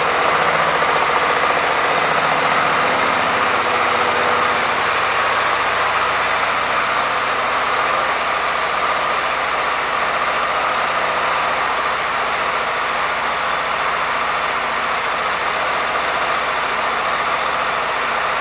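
Suzuki Burgman 400 scooter's single-cylinder engine idling steadily, a little louder in the first few seconds.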